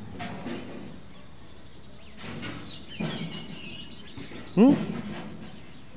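Small birds chirping: a rapid string of high twittering notes from about a second in until about four and a half seconds, with a short voiced sound from a person near the end.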